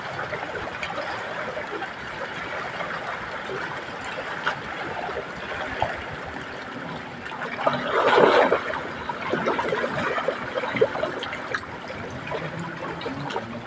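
Water steadily trickling and running, with a louder burst of water about eight seconds in.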